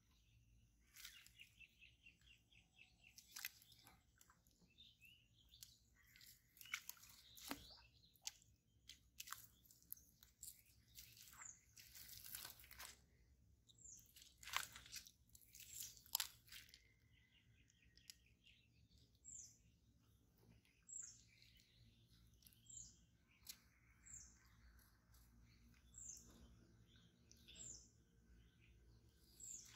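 Faint bird chirps outdoors: in the second half, a short falling high note repeats about every second or so. In the first half, short crunching and rustling sounds come in bursts alongside higher chirps.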